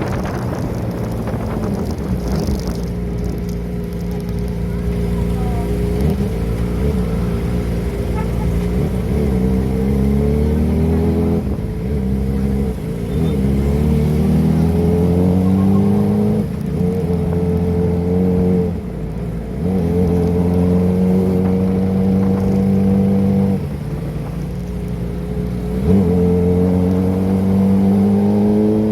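Kawasaki ZX-25R's 250 cc inline-four engine with a Prospeed aftermarket exhaust, ridden under acceleration. Its pitch climbs in repeated rising sweeps and drops back at each gear change, several times over.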